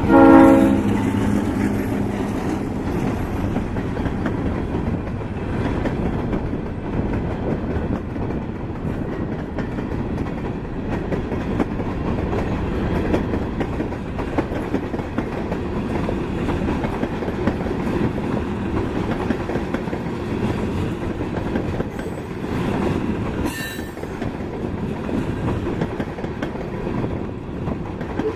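Freight train rolling past, its empty cars making a steady rumble and wheel clatter. The locomotive's horn cuts off about half a second in. A brief faint squeal comes near the end.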